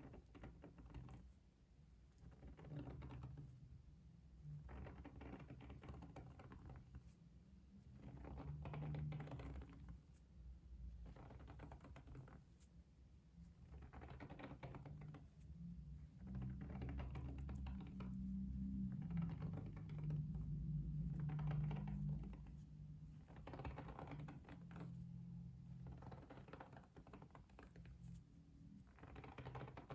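Close, quiet ASMR trigger sounds: bursts of rapid soft clicking, each lasting a second or two, repeating with short pauses throughout.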